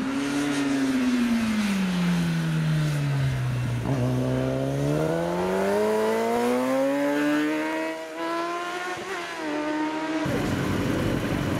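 Superbike motorcycle engine on the move. Its pitch falls smoothly for about four seconds, then climbs steadily as it accelerates again. Near the end it breaks off abruptly into a rushing noise.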